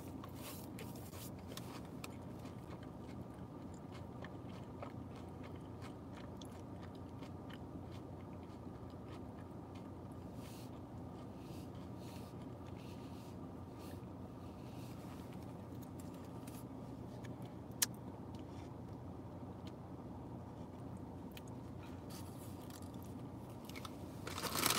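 Faint close-up chewing and biting of food, with small mouth clicks, over a steady low hum inside a car's cabin. One sharp click stands out about eighteen seconds in.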